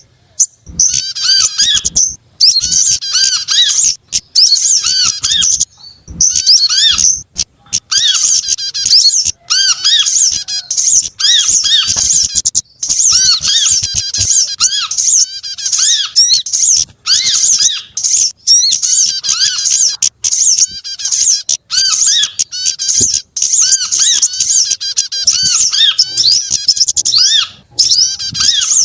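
Bird-lure recording of several small songbirds calling over one another: dense, rapid high chirps and trills with a repeated short rising-and-falling note beneath them, in bursts broken by brief gaps.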